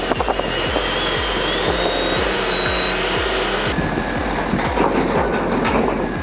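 Steady machine noise from heavy equipment, with a faint whistling whine in the first half, over a steady background music beat; the sound changes at a cut near the end.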